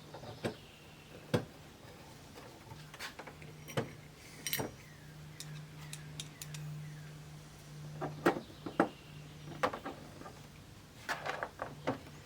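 Irregular clicks and knocks of TV parts being handled and set in place during reassembly, with a cluster of quick knocks near the end, over a steady low hum.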